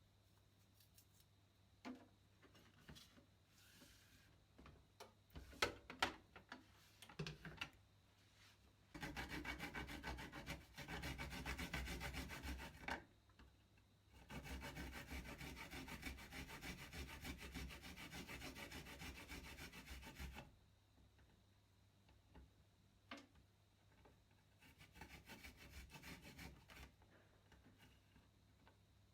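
A garlic clove being grated, rubbed quickly back and forth on a grater in a fast, even rasping. Two long runs of several seconds come in the middle, with a few light taps before them and a quieter run near the end.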